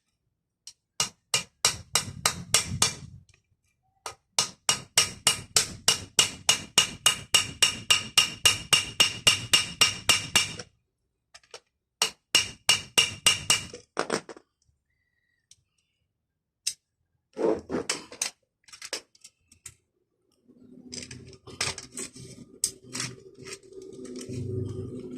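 Rapid metallic tapping from a hand tool on metal, about four to five strokes a second in several runs, then a few single clicks. A steady low hum begins near the end.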